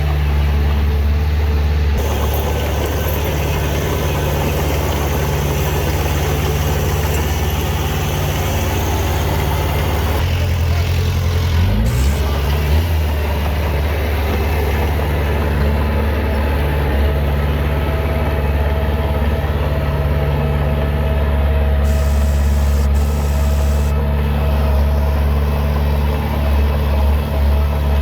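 Heavy diesel engine of earthmoving machinery running steadily, with a brief swing in engine pitch about twelve seconds in.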